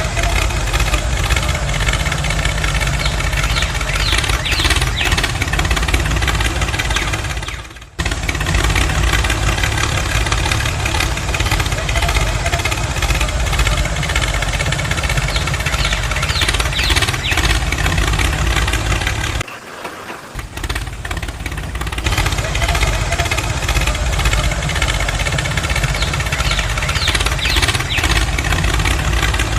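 A small engine running steadily. It cuts out abruptly for a moment about eight seconds in, and drops away again for a couple of seconds about two-thirds of the way through.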